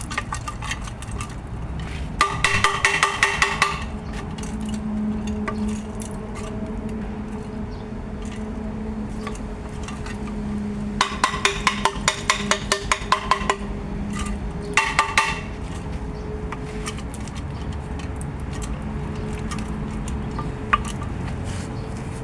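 Metal tools working on a car's lower control arm ball joint: three bursts of rapid, evenly spaced metallic strikes, several a second, under a steady hum.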